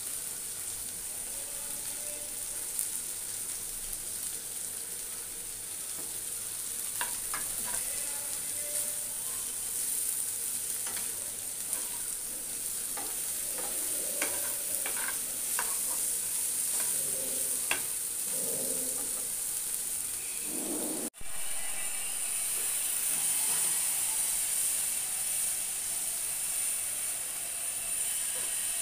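Shredded Bombay duck (loitta fish) with onions and green chillies sizzling steadily as it fries in a kadai, while a steel spatula scrapes and clicks against the pan during stirring, mostly in the middle stretch. The sizzle cuts out for an instant about two-thirds of the way through and comes back slightly louder.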